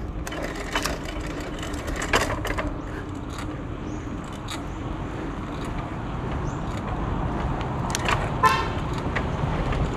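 Road traffic, with a motor vehicle's engine running. A short horn toot comes about eight and a half seconds in.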